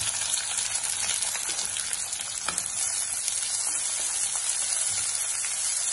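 Finely chopped onion sizzling in hot oil in a pan: a steady frying hiss with scattered crackles.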